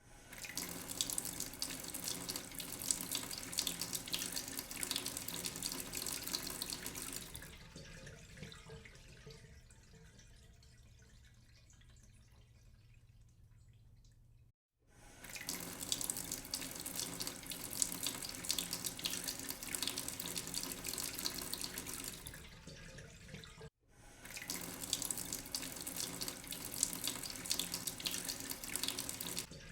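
Water running from a tap and splashing into a sink, in separate stretches that begin and end abruptly, with a much quieter, thinner flow in the middle.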